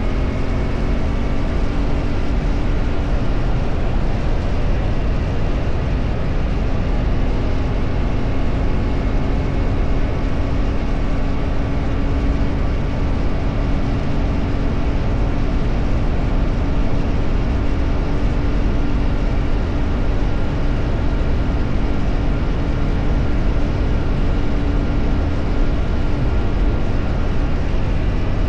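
A vehicle travelling at a steady speed: a constant engine hum in one unchanging pitch under heavy wind and road noise.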